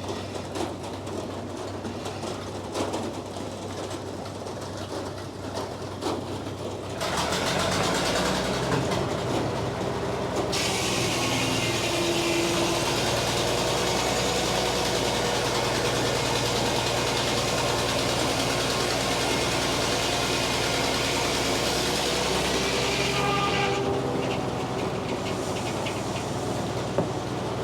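Frick sawmill running: its power drives steadily, and about seven seconds in it gets louder as the carriage starts to move. From about ten seconds a loud rushing hiss comes in as the 48-inch circular blade cuts through the poplar log. The hiss stops about twenty-three seconds in when the cut ends.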